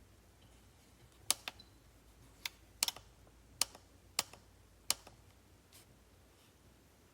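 A series of light, sharp clicks, about eight of them, spaced irregularly over roughly four seconds, some in quick pairs.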